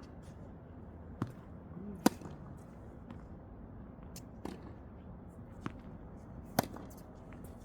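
Tennis balls struck by rackets and bouncing on the court during a drill: about five sharp, separate pops spaced roughly a second apart, the loudest about two seconds in.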